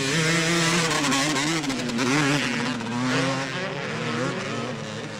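Motocross bike engines revving hard, their pitch climbing and dropping again and again as the riders work the throttle around the track.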